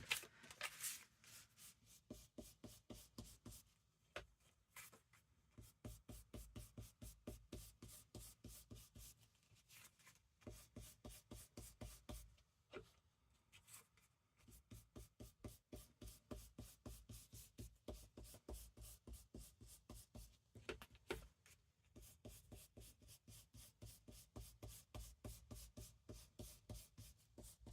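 Ink being rubbed onto the edges of paper journal pages: faint, quick, even rubbing strokes, about three or four a second, with a few brief pauses.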